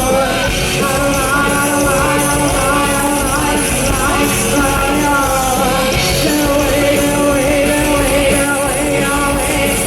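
Live rock band playing loud and continuous, with a woman singing over it.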